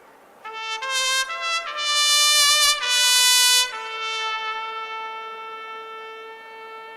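Solo trumpet playing a short phrase of several notes, loudest near the middle, then holding one long note that slowly fades.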